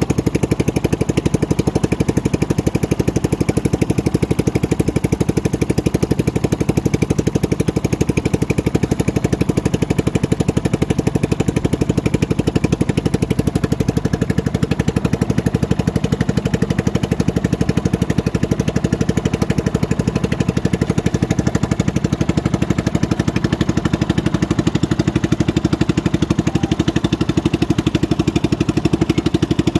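Small engine running steadily at an even speed, with a fast, regular pulsing that holds unchanged.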